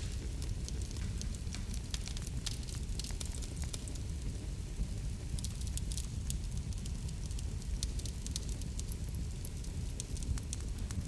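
Wood fire crackling in a fireplace: a steady low rumble of burning with frequent small, sharp pops and crackles at irregular intervals.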